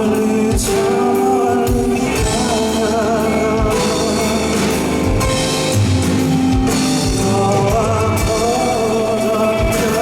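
Live male vocal performance with a band: a man singing held, wavering notes over guitar, sustained chords and a drum beat.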